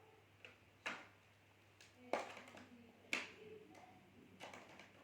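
Light clicks and taps from a laptop being taken apart: three sharp clicks about a second apart, with fainter ticks of plastic case parts and small tools between them.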